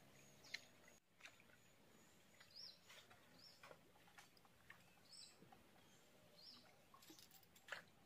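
Near silence with faint, short, high bird chirps repeated at intervals and a few soft clicks, the loudest of them near the end.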